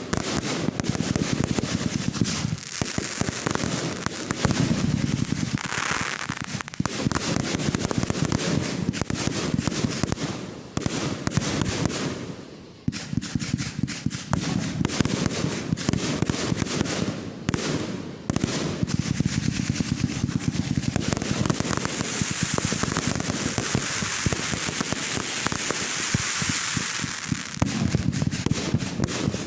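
Fireworks going off in quick succession: a dense run of sharp pops and crackling bangs, broken by a few short lulls. Later on a steady hissing crackle joins the reports.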